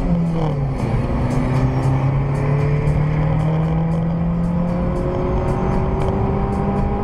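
Car engine heard from inside the cabin, accelerating along a highway. Its pitch climbs steadily for several seconds, with a drop about a second in and another near the end, as at gear changes, over steady road noise.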